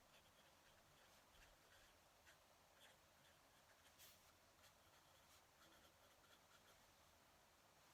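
Faint scratching of a fountain pen nib on paper during handwriting, in short irregular strokes.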